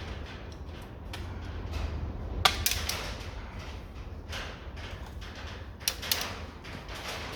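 Metal clicks, clinks and scraping as the last valve and its spring are taken out of a Ford Pinto OHC cast-iron cylinder head, with a sharp metallic click about two and a half seconds in and two more near six seconds.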